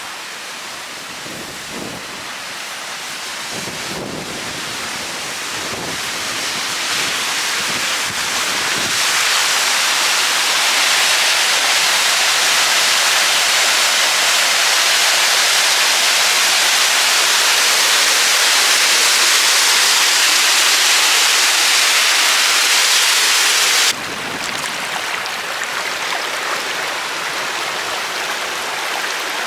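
Rushing water of the Loup of Fintry waterfall: a steady, loud, hissing rush that grows louder over the first ten seconds. It then drops suddenly to a softer rush for the last few seconds.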